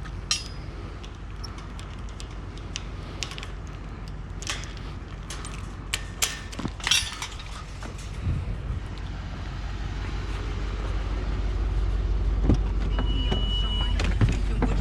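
A vehicle's engine running with a steady low rumble that grows louder through the second half, with scattered clicks and knocks and a short high beep near the end.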